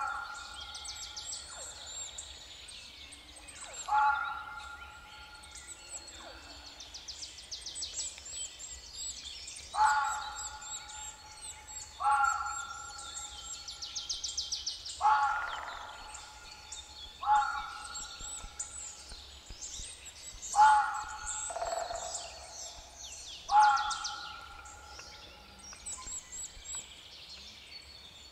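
Forest birds calling: a loud call of two held notes, about a second long, repeated eight times every two to three seconds, over fainter high chirping and rapid trills of smaller birds.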